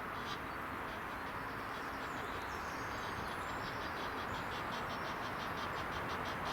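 Outdoor ambience: a steady rushing noise with a rapid, even run of faint high chirps, about four to five a second, over it.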